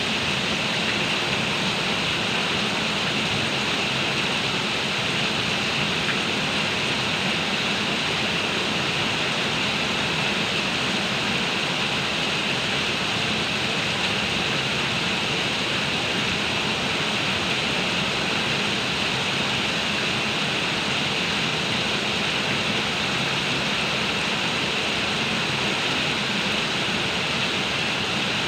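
Heavy downpour of rain falling steadily, a dense, even hiss with no let-up.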